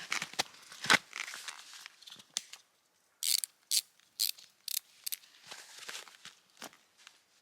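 Snowshoe bindings being fastened by hand: a run of short, sharp clicks about half a second apart, with quieter scattered handling noises around them.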